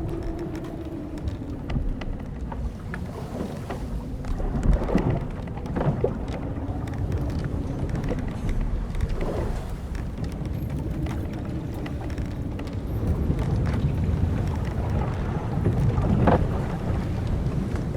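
Timbers and rigging of an old wooden sailboat creaking as it rocks, in slow, drawn-out creaks that bend in pitch, with small knocks between. Underneath runs a steady wash of sea and wind. The creaks come louder about five seconds in and again, loudest, near the end.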